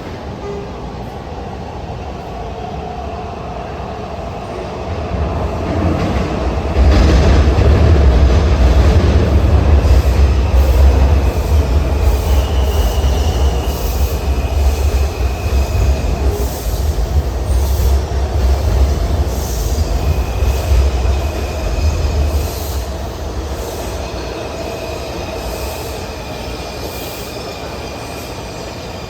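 Breda 3000-series Metrorail train pulling into a station: a low rumble swells about five seconds in and stays loud with rail clatter, then high squeals from the wheels and brakes come and go as it slows and the rumble eases near the end.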